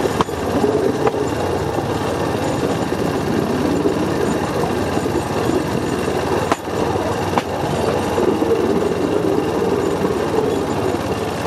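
Bamboo train (norry) running along the rails: a steady rattling rumble of its small engine and wheels, with a few sharp knocks.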